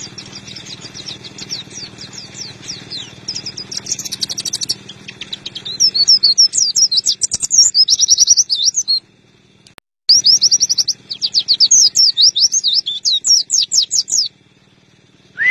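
White-eye (pleci) singing a fast chattering song of rapid high chirps: soft at first, then loud in two long runs from about six seconds in, with a short pause between them.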